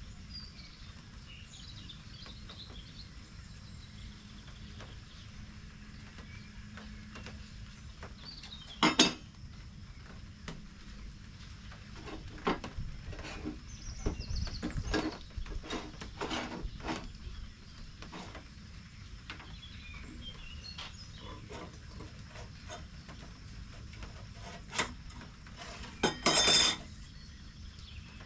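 Hard objects clinking and knocking as they are handled: a single clink, then a busy run of clinks and knocks, and a longer clatter near the end.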